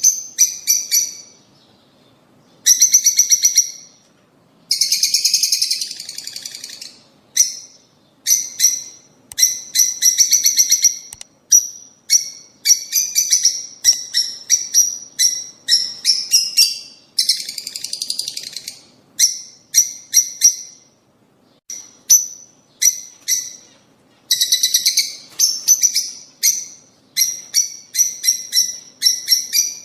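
Lovebirds chirping and chattering: shrill chirps in quick runs and denser bursts of a second or two, with brief pauses between them.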